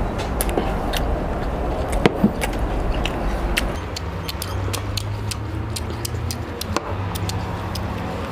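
Crunchy chewing and small sharp clicks of eating a raw-vegetable salad by hand, over a low steady engine-like hum.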